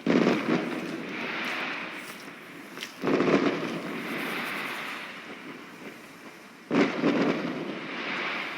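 Fireworks exploding: three loud bangs about three to four seconds apart, each followed by a noisy tail that fades over a couple of seconds.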